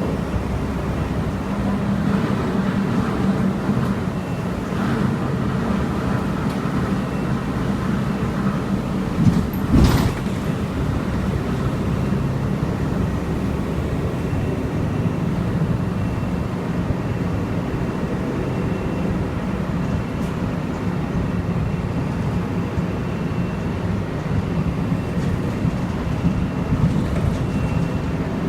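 Steady vehicle noise, mostly low in pitch, with one sharp knock about ten seconds in.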